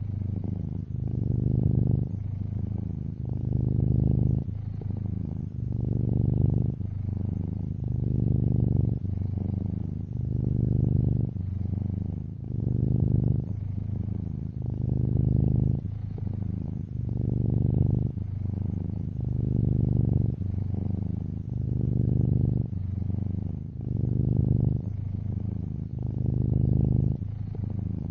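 Domestic cat purring steadily, the purr swelling louder and easing in a regular rhythm about every two seconds as the cat breathes in and out.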